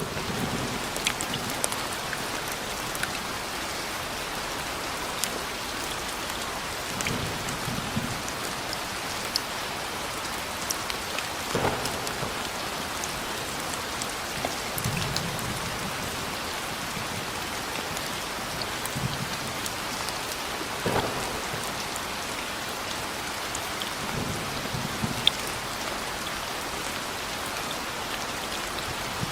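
Steady thunderstorm rain pattering, with scattered drop ticks and low rolls of thunder rumbling several times every few seconds.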